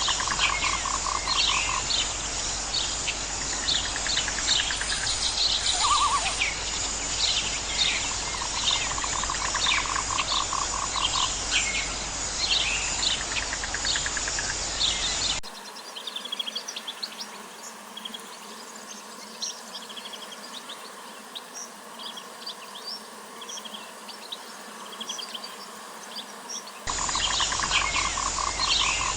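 Outdoor nature ambience: many birds chirping, with a fast pulsing trill repeating now and then under a steady hiss. About halfway through it cuts abruptly to a quieter stretch of sparser chirps, then the fuller chorus comes back near the end.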